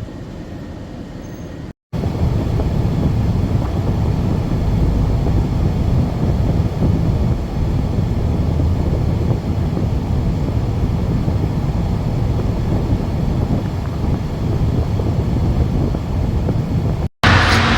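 Steady road noise of a moving van, a low rumble with no distinct tones; it cuts out briefly about two seconds in and returns louder, then cuts out again near the end.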